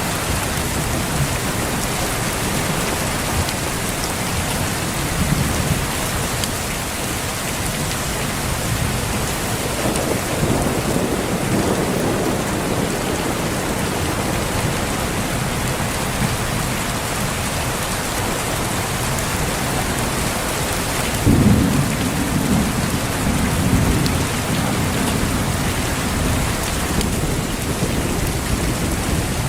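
Steady heavy rain with a continuous hiss, and thunder rumbling beneath it: a low roll about ten seconds in, then a louder, sharper clap about two-thirds of the way through that rolls on for a few seconds.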